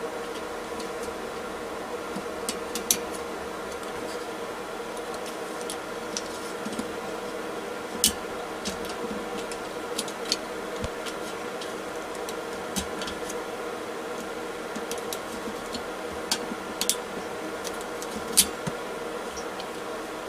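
Scattered small clicks and light taps of metal and plastic parts being handled during a diesel heater teardown, over a steady electrical hum.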